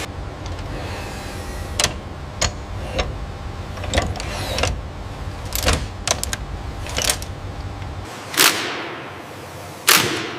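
Factory machinery noise: a steady low hum with irregular sharp metallic clicks and knocks. The hum drops away about eight seconds in, and two short hissing bursts come near the end.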